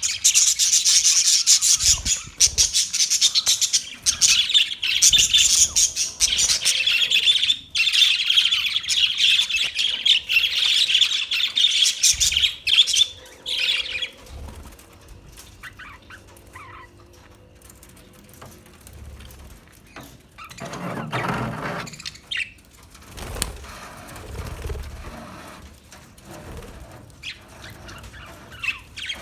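Parakeets chirping and chattering densely and loudly, the calls thinning out after about fourteen seconds to quieter scattered chirps and small clicks, with a short lower-pitched rustle about twenty-one seconds in.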